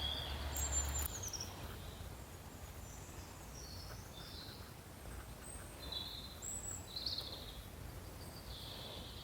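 Birds calling: short, high chirps every second or so over a faint, steady background hiss.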